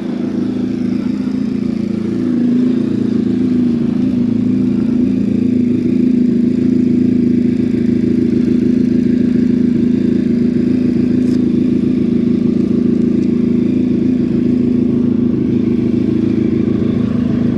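Honda VFR1200F V4 engine idling through a Coffman Shorty slip-on exhaust while it warms up: a steady, even note that lifts slightly about two seconds in.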